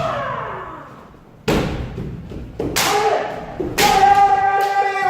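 Kendo sparring: three sharp cracks of bamboo shinai strikes, about a second apart, and long, held kiai shouts from the fencers, one fading out at the start and another held through the second half.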